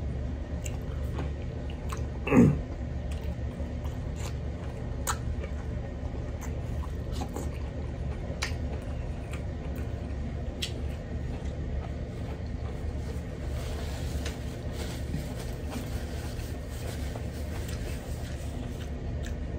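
A person chewing food, close-up: soft wet mouth clicks and smacks scattered throughout over a steady low hum, with one brief louder sound about two seconds in.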